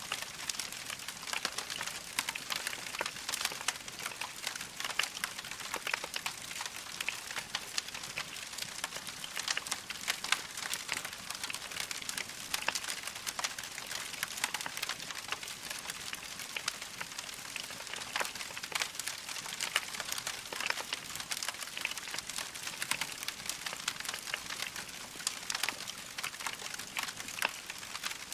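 Wood fire crackling in a fireplace: a dense, steady run of small pops and ticks with louder snaps here and there, over a soft hiss.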